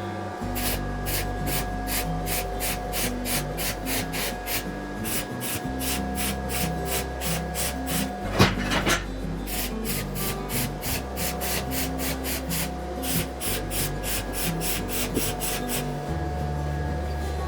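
Hand filing, with even rasping strokes about four to five a second that stop about sixteen seconds in, over background music with a steady bass line. A single sharp knock comes about eight seconds in.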